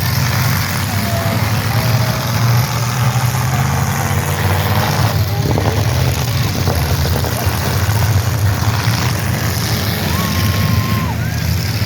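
Demolition derby cars' engines running loud and rough together, with a few short clattering knocks about five to seven seconds in.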